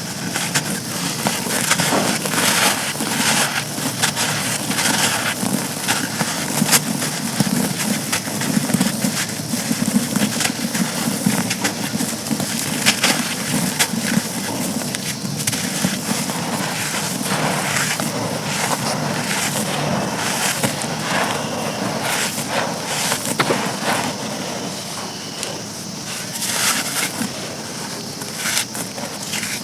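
Dry, grainy chunks of charcoal being crushed and crumbled: continuous dense crunching and crackling, full of sharp snaps.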